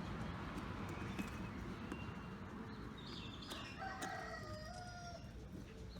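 A rooster crowing once: a single drawn-out call starting about three and a half seconds in and lasting about a second and a half.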